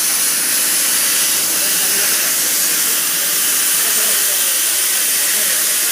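A steady, loud hiss, strongest in the high pitches, holding even throughout.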